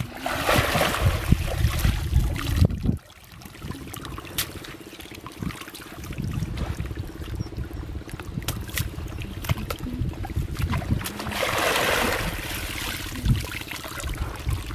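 Water trickling and sloshing, swelling twice, with scattered small splashes and a low wind rumble on the microphone.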